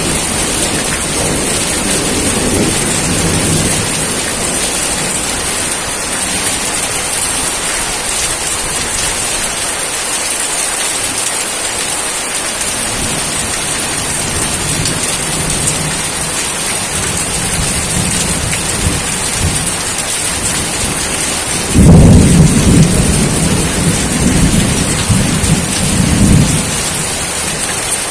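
Steady rain hiss, with soft low thunder rumbling in the first few seconds and again midway. Near the end a sudden loud thunderclap breaks in and rumbles for about four seconds.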